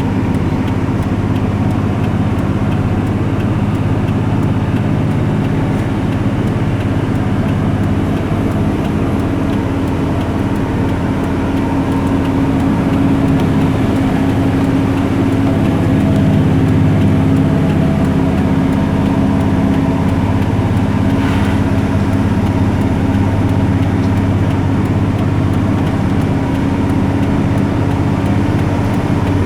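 A motor vehicle's engine running steadily at cruising speed with road noise, its hum holding level throughout and no passing swell.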